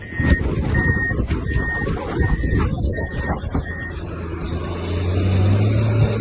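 A vehicle's reversing alarm beeps at one pitch, about six beeps spaced under a second apart, and stops about four seconds in. Under it runs a low engine rumble that grows louder near the end.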